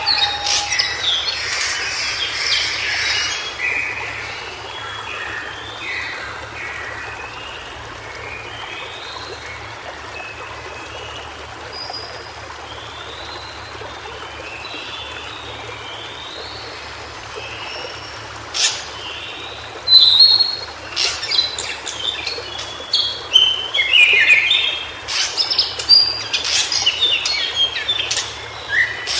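White-browed shortwing singing: phrases of quick, jumbled high warbling notes. The song is fainter through the middle and louder again with sharp notes over the last third.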